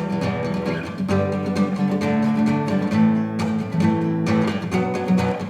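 Acoustic guitar strummed in chords, playing an instrumental interlude passage, with a short break in the strumming about three and a half seconds in.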